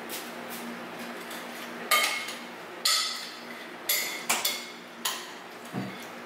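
Metal cookware clinking: a utensil or lid knocks against a metal pot about six times, roughly a second apart, each with a short metallic ring, over a steady low hum.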